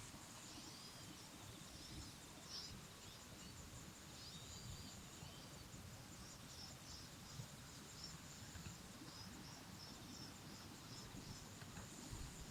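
Faint small-bird chirps and twitters over quiet outdoor background noise, with a run of short, evenly repeated calls in the second half.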